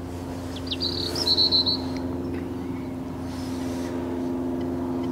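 A small bird gives a short burst of chirping song about a second in, over a steady low hum.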